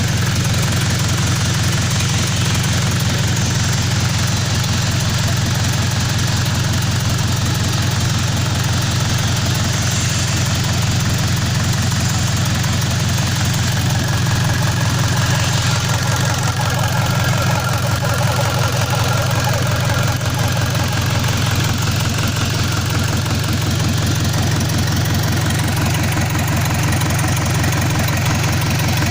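Mitsubishi Colt Diesel PS100 truck's diesel engine running steadily at idle with a fast, even pulse. The engine is worn and due for an overhaul.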